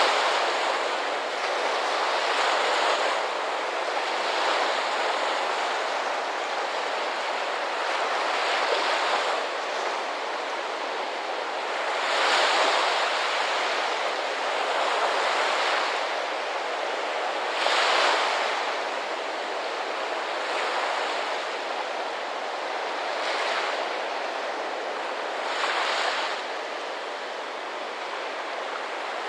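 Ocean surf: a steady rush of water that swells louder each time a wave breaks, every few seconds.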